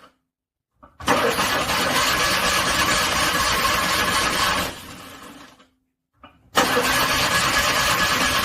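Car engine cranking on its starter in freezing cold without catching: a first attempt starts about a second in, runs about four seconds, then dies away, and a second attempt begins near the end.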